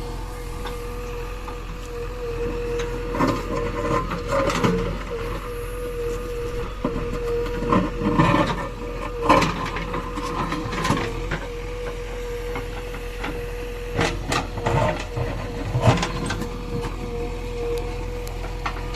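JCB 3DX backhoe loader's diesel engine running steadily with a constant whine, while the machine works with scattered clanks and knocks, coming in clusters through the middle and again near the end.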